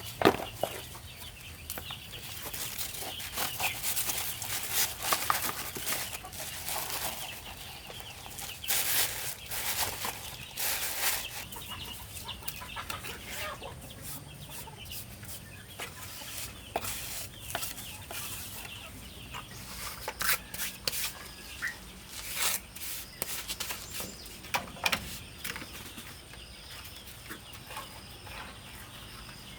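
Chickens clucking, with many short, irregular sounds that are busier in the first half.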